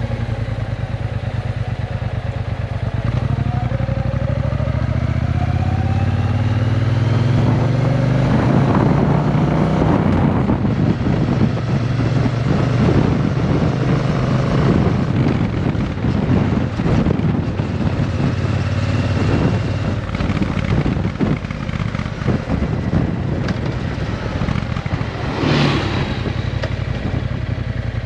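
Triumph Bonneville T120's 1200 cc parallel-twin engine running through a Vance & Hines exhaust, its note rising as it accelerates a few seconds in, then running on at a steady, rougher pitch.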